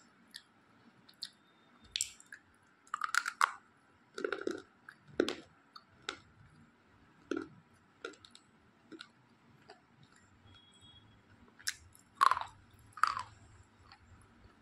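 A person chewing close to the microphone, mouth closed, with scattered short bites and mouth clicks and two louder ones near the end.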